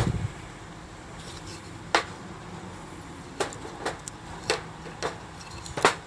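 Metal parts of a compact fire pit clinking and knocking as they are handled: about six separate sharp clinks, spread unevenly and coming faster toward the end, over a faint low hum.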